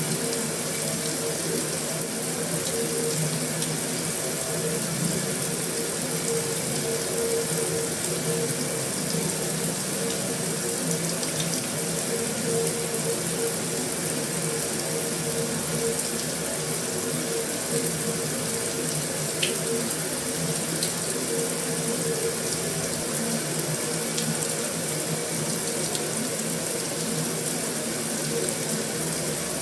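Heavy rain falling on a metal roof: a steady, even hiss with a few faint ticks scattered through it.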